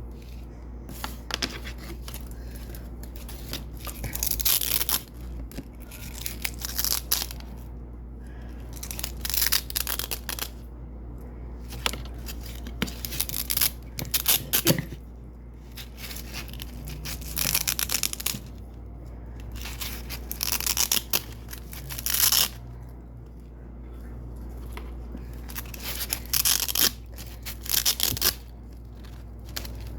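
Hook-and-loop (Velcro) tape being pulled apart again and again: about ten crackly ripping bursts, each a second or so long, a second or two apart. A steady low hum runs underneath.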